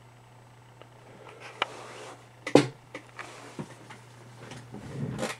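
Handling noises: scattered clicks and knocks with a loud sharp knock about two and a half seconds in and some scraping near the end, over a steady low hum.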